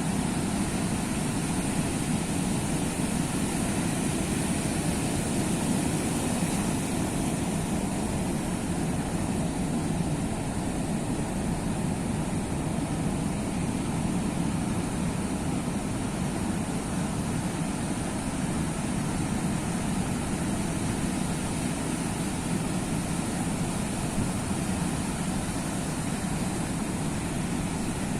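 Steady roar of sea surf, an even rumbling wash with no single wave standing out.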